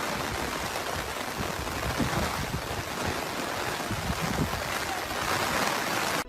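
Steady rushing of floodwater, an even wash of water noise.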